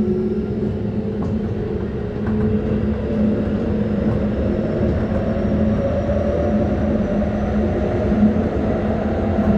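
Keikyu 600 series electric train running, heard from on board: wheel and rail rumble under a motor whine that rises slowly in pitch as the train gathers speed.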